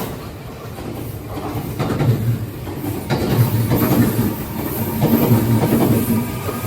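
Kintetsu electric train running past, its wheels knocking over the rail joints with a clickety-clack and a low rumble. It grows louder about a second in.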